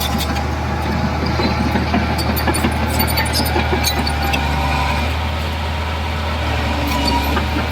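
Heavy diesel engine of earthmoving machinery running steadily with a deep hum, with scattered metallic clanks and rattles, most of them in the first half.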